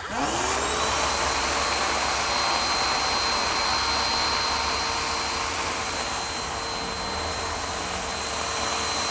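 An electric motor switches on and spins up quickly, its hum rising in pitch over about half a second. It then runs steadily with a high whine over a broad, airy noise.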